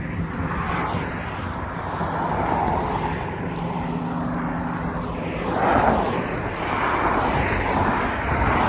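Road traffic: cars driving past one after another, engine hum and tyre noise swelling and fading, loudest about six seconds in.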